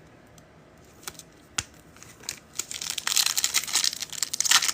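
Foil trading-card pack wrapper being handled, torn open and crinkled. A few light clicks at first, then from about halfway through a dense, loud crinkling.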